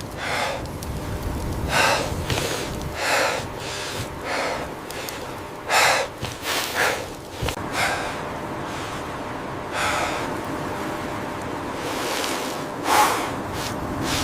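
A series of short, noisy breaths or snorts, about ten of them unevenly spaced, over a steady hiss.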